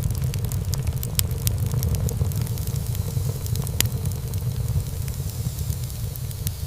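Wood fire burning in a fireplace: a steady low rumble of flames with frequent sharp crackles and pops of burning wood, one louder pop a little after the middle.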